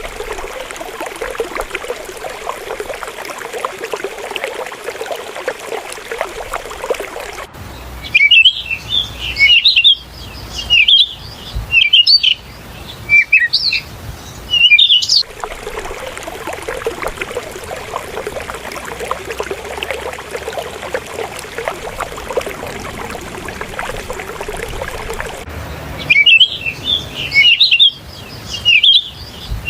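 Steady rush of flowing river water, which twice gives way to a songbird singing loud, quick, chirping phrases with short pauses between them: once from about 8 to 15 seconds in, and again near the end.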